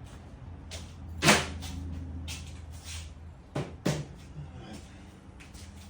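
A few sharp knocks and clatters, like a cupboard or door being handled: the loudest about a second in, two more close together about three and a half seconds in, over a low steady hum.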